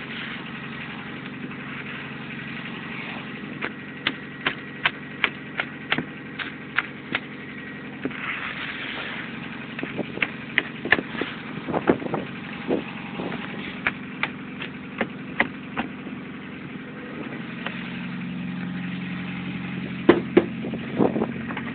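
A car engine idling steadily under a string of sharp crunches and knocks in heavy snow, about one or two a second, with a short scraping hiss partway through.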